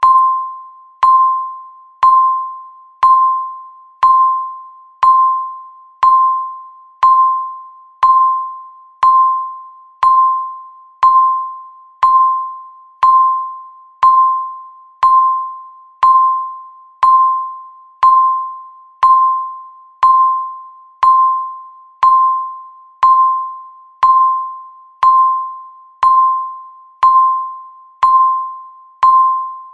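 Countdown timer's electronic tick sound, one every second: a sharp ping with a clear, mid-pitched ringing tone that fades away before the next.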